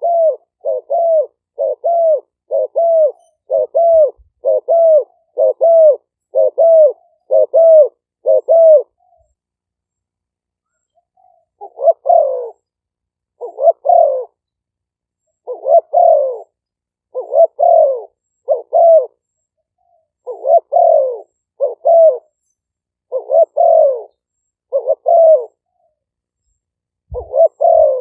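Spotted dove cooing, a trained decoy bird's call. A fast, even run of about a dozen short coos is followed by a pause of about two seconds, then slower coos, often in pairs.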